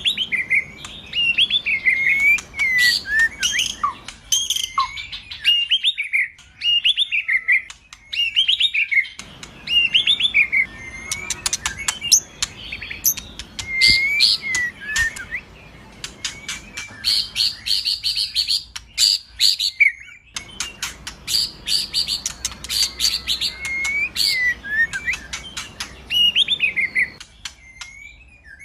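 White-rumped shama (murai batu) singing a fast, varied song: whistled phrases and sliding notes mixed with quick ticking calls and short rapid trills.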